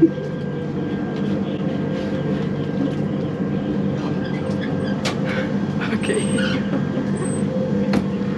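Indian sleeper train running, heard from inside the carriage: a steady rumble with a low hum, and a few sharp clicks about five and eight seconds in.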